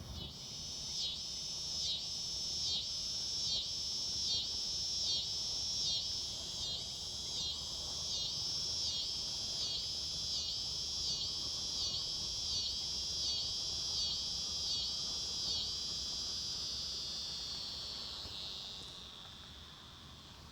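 Insect buzzing in a high, pulsing rhythm of a little more than one pulse a second. The buzz then runs steady and fades away near the end.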